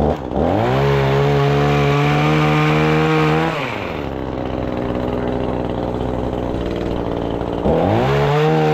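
Pole saw's small engine: revved up to a steady high pitch for about three seconds, dropped back to idle, then revved up again near the end.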